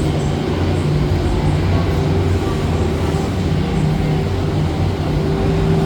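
Steady low mechanical hum and rumble of the DINOSAUR ride's loading station, where the Time Rover ride vehicles run.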